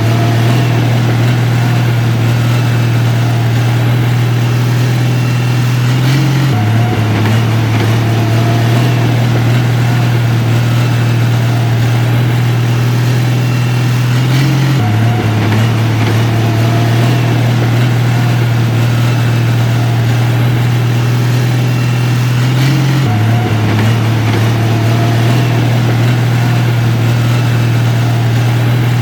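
Heavy construction-machine diesel engine running steadily with a deep low drone; the sound repeats the same small shift roughly every eight seconds.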